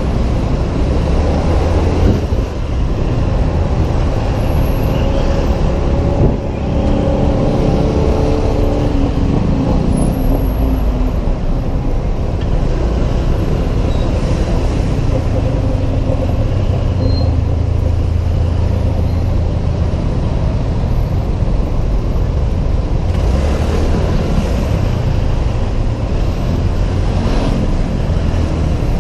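Riding a Honda PCX 125 scooter through city traffic: steady, loud road and engine noise with a deep rumble. A clear engine note rises and falls between about six and ten seconds in.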